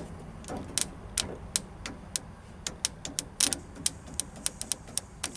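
An irregular series of sharp clicks, about twenty in five seconds, some in quick pairs, over a faint low hum.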